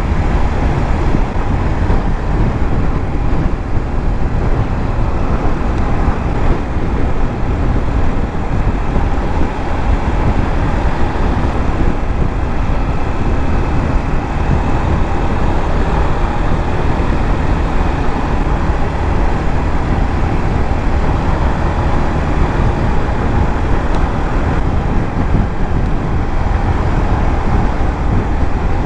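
Steady rush of wind and road noise while riding a 150cc motorcycle at a constant speed.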